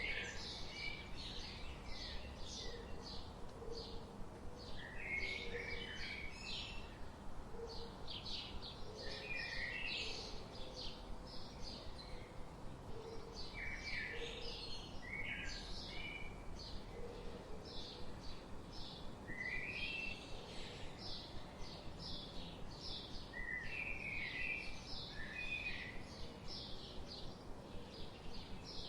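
Forest birds chirping in quick repeated series of short, high calls, with a softer low note recurring every few seconds, over a steady low background hiss.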